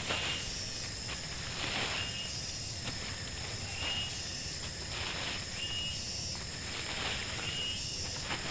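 Forest ambience: a steady high insect drone, with an animal call repeating about every two seconds, each a short rasp followed by a brief high note.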